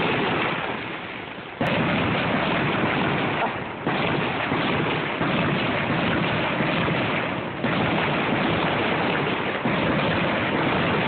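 Fireworks going off, a continuous rushing crackle through a phone microphone with sudden fresh blasts several times.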